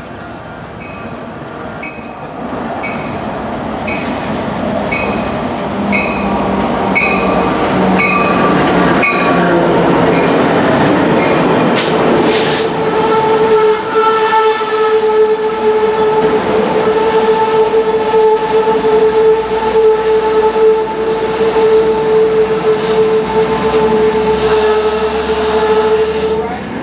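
A train drawing closer and growing louder, with a bell ringing about once a second at first. About halfway through, a steady high tone starts and is held until near the end.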